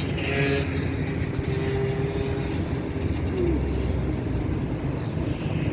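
Outdoor ambience: a steady low rumble, with bursts of hiss during the first two and a half seconds.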